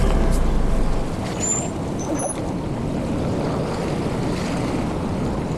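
Steady rushing noise of a ride through traffic, with wind on the microphone; background music ends about a second in.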